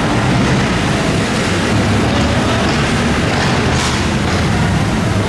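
Steady, loud street traffic noise, a continuous low rumble with no distinct single event.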